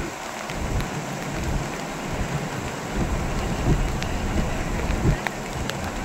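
Steady rain and floodwater running over a submerged causeway: a continuous even hiss with irregular low rumbles.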